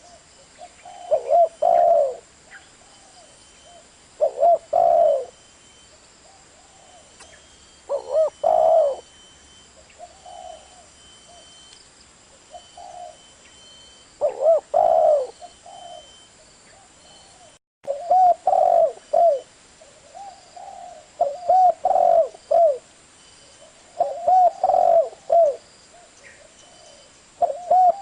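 Spotted dove cooing: phrases of several low, curving coos, repeated every couple of seconds, with a sudden brief cut to silence about two-thirds of the way through.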